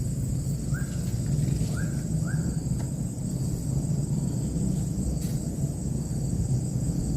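A bird gives three short upward-sliding chirps about a second in and twice more just after two seconds. Under them runs a steady low rumble and a constant high insect buzz.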